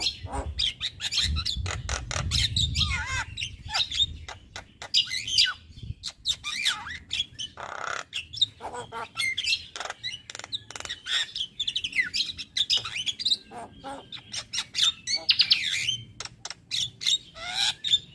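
Male Javan myna (jalak kebo) calling continuously: a rapid, varied stream of chirps, gliding whistles and harsh squawks mixed with sharp clicking notes.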